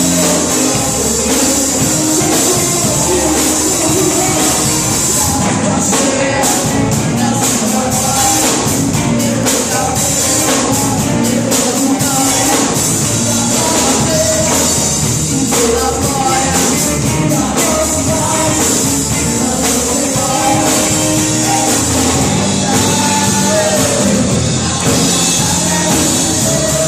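A live worship band playing an upbeat song with drum kit and tambourine, and voices singing.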